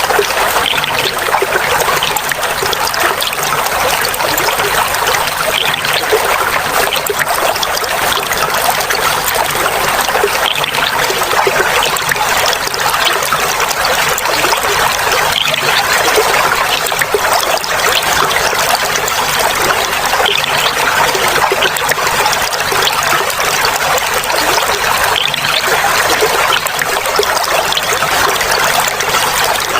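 Clear water flowing and trickling steadily, a babbling splash with no pauses.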